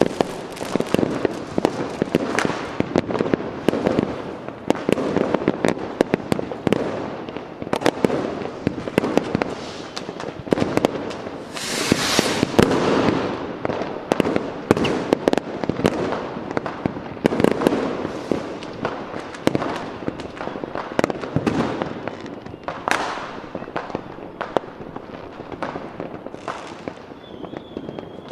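Fireworks going off in a dense, continuous barrage: many bangs and crackles in quick, irregular succession, with a longer hissing burst about twelve seconds in.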